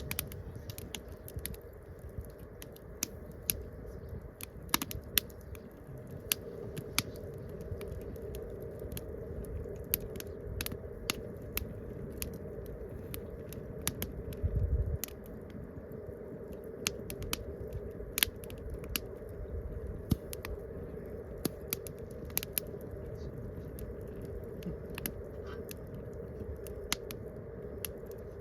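Wood campfire crackling, with irregular sharp pops and snaps from the burning wood throughout and a short low rumble about halfway through.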